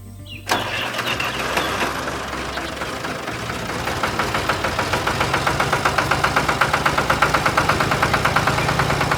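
An engine starts suddenly about half a second in and runs, settling into a fast, even knocking of about six beats a second that grows louder toward the end.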